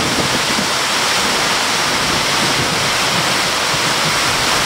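Heavy rain pouring steadily onto a flooded paved yard and the plants around it, a dense, even hiss.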